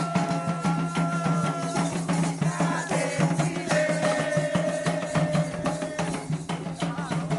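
Candomblé ritual music: dense, fast hand drumming with rattles, over long held tones.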